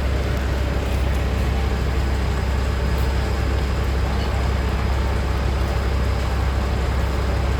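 A large engine running steadily: a deep, unbroken drone under an even rushing noise, with no change in speed.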